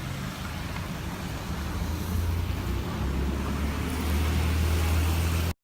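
Car engine and road noise: a steady low hum under a hiss, growing louder in the second half and cutting off abruptly just before the end.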